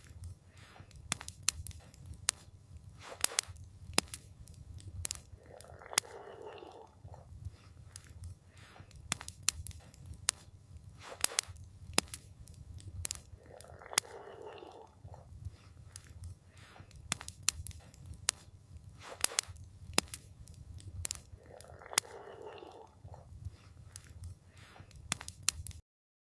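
Campfire burning, with irregular sharp crackles and pops over a steady low rumble. A soft hiss swells briefly about every eight seconds, and the sound cuts off abruptly near the end.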